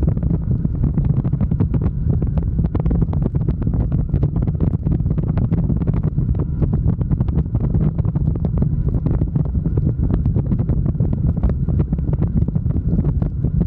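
Wind buffeting the microphone over a steady low drone from a motorcycle underway at a constant pace.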